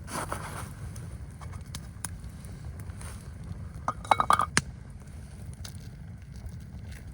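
A steady low rumble with a quick run of sharp clinks and knocks, some briefly ringing, about four seconds in.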